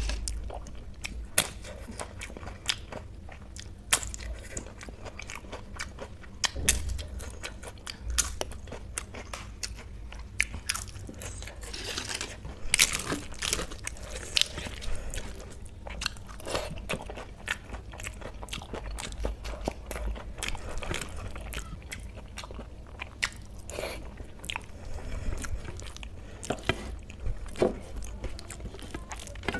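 Close-miked eating of rice and kadhi with pakodas: chewing with frequent short wet smacks and clicks of the mouth, irregular throughout.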